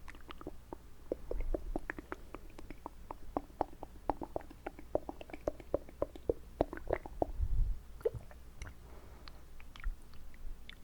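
Wet mouth sounds close to the microphone: quick wet clicks and smacks of tongue and lips, about four a second, thinning out near the end. About three-quarters of the way through comes a single low bump, the loudest sound.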